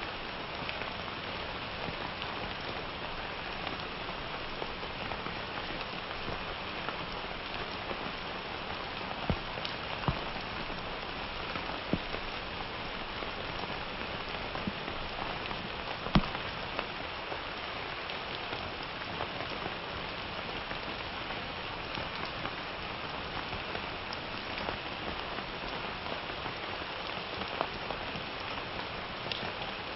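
Steady summer rain falling, a constant hiss of rain with scattered louder individual drops hitting a surface, the sharpest about 16 seconds in.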